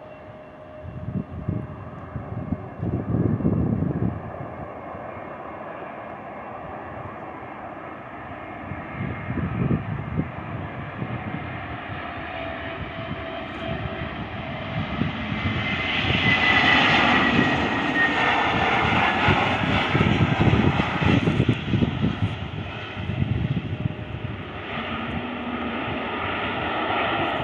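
Airbus A321neo's Pratt & Whitney PW1100G geared turbofan engines as the jet comes in on approach. The noise builds to its loudest through the middle, where a high whine drops in pitch as the aircraft passes, then eases off.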